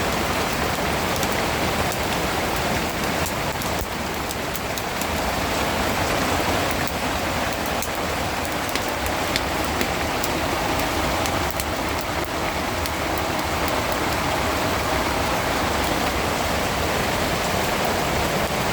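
Heavy rain falling steadily, with many sharp individual drop ticks through the dense hiss.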